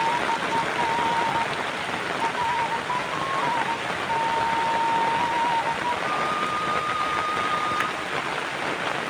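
Steady rain falling. A thin, steady high tone breaks off and returns through it and steps up in pitch about six seconds in.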